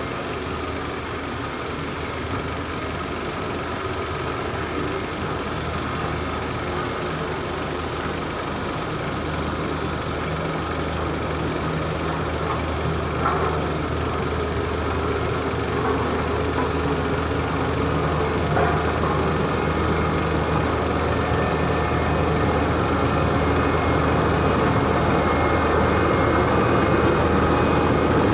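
Heavy truck engine running steadily, slowly growing louder.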